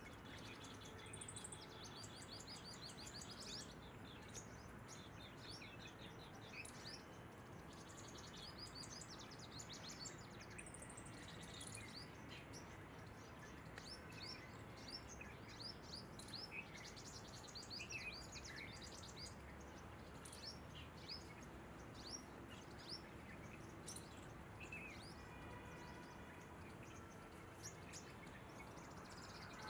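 Faint morning bird chorus: many short, high chirps and twitters from several birds, overlapping and coming thick and fast throughout, over a steady background hiss.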